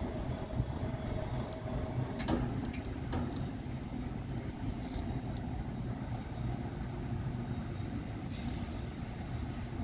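Low, steady rumble of a Northstar commuter train moving away into the distance, with a few sharp clicks about two to three seconds in.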